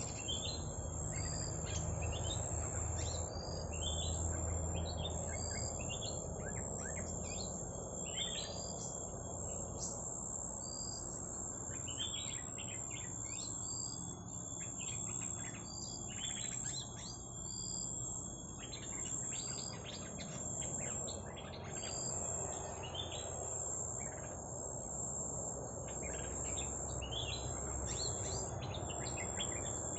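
Small birds chirping in rapid short, repeated high notes, used as the call for luring petpet birds, over a steady high-pitched insect-like whine.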